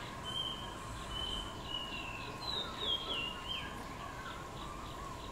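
A bird singing a run of clear, high whistled notes, several of them gliding downward, over the first three and a half seconds. A steady thin tone sounds beneath them, and faint regular chirps at about three a second come in near the end.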